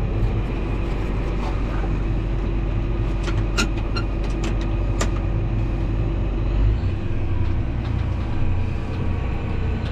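Tractor engine running steadily, heard from inside the cab with the air-conditioning fan going. A few sharp clicks come around the middle, and the deep engine hum drops about seven seconds in.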